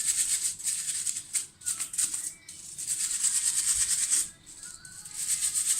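Stiff cleaning brush scrubbing a soapy dishwasher filter: fast back-and-forth scratchy strokes in runs, with short pauses between them.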